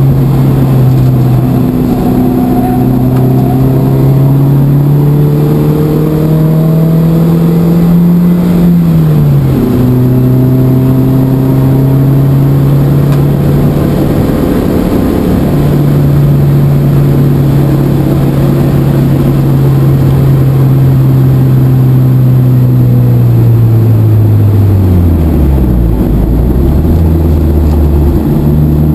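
Opel Speedster's four-cylinder engine at full load, heard from the cockpit on track. The pitch climbs, drops at a gear change about nine seconds in, runs steadily for a long stretch, then falls steeply under braking and downshifts near the end before picking up again.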